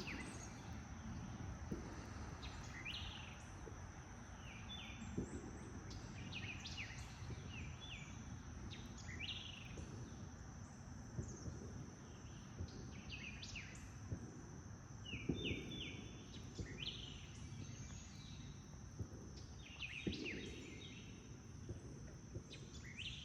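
Outdoor ambience of small birds chirping: many short, quick chirps scattered through, over a steady high-pitched insect drone and a low background hiss.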